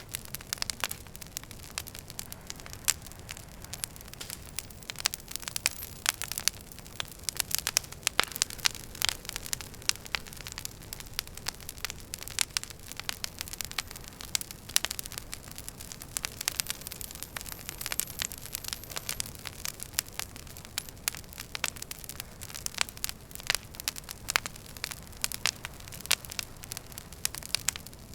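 Wood fire burning in a fireplace, crackling with many irregular sharp pops and snaps over a low steady rush.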